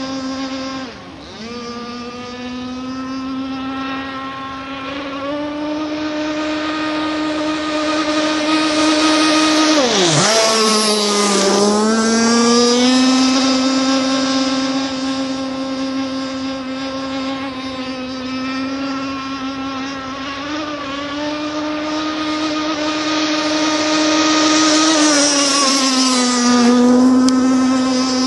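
Radio-controlled R42 racing catamaran running at speed on a straight-away pass, its motor holding a steady high pitch. About ten seconds in the pitch swoops sharply down and climbs back, with a smaller dip near the end, as the boat runs past and changes speed.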